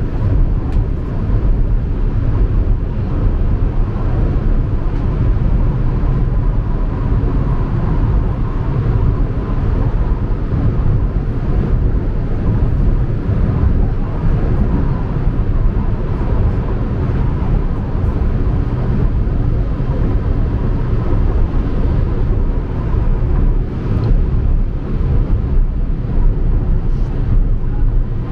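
Metro train running, a steady low rumble that carries on without a break.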